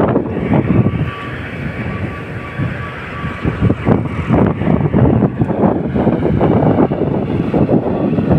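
Motor grader's diesel engine running as it grades the road, with wind buffeting the microphone.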